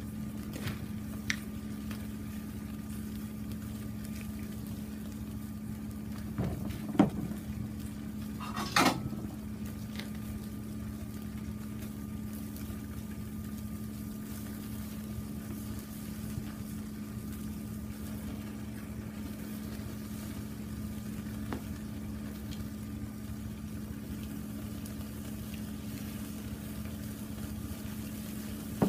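Chicken karaage frying in oil in a frying pan over a wood fire, a steady bubbling hiss. A few sharp clinks of a utensil on the pan, the loudest about seven seconds in.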